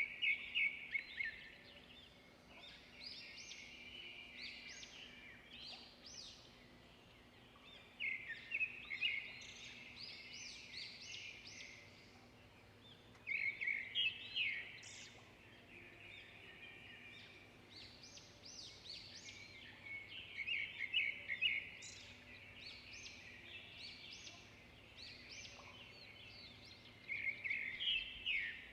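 Songbirds singing: loud trilling song phrases come about every six seconds, with softer chirping in between.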